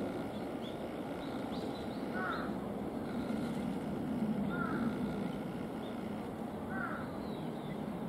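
A bird calling three times, a short call about every two and a half seconds, over a steady low rumble.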